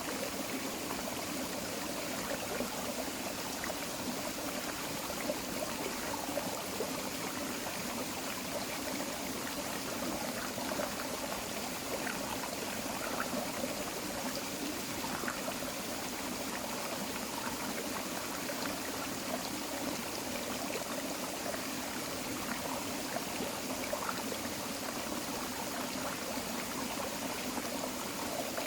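Tropical forest creek flowing steadily.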